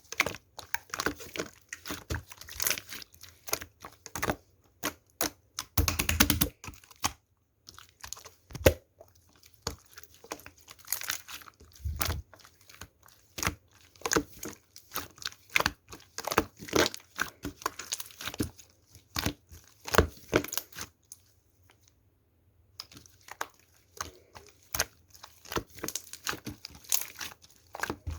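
Slime being squeezed, pressed and stretched by hand, giving a dense run of small crackling clicks and crinkly, tearing sounds. There is a brief pause a little after the three-quarter mark.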